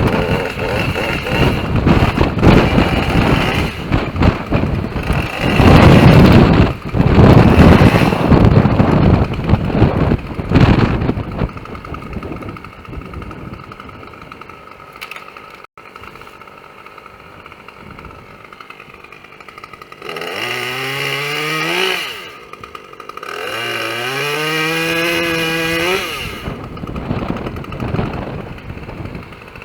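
Two-stroke chainsaw running, loud for the first ten seconds or so, then idling more quietly, with wind on the microphone. Twice near the end it is revved, its pitch rising each time.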